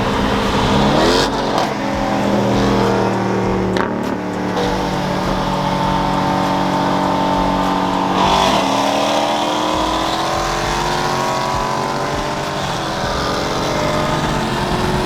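Car engine pulling hard under acceleration. Its pitch drops at a gear change about a second in and again around eight seconds in, then climbs steadily each time.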